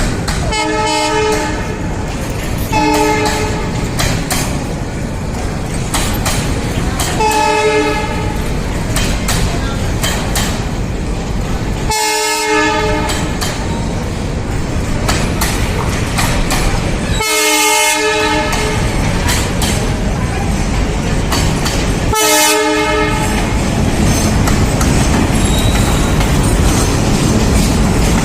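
Train rolling with a steady rumble and clatter, its horn sounding in short blasts about every five seconds.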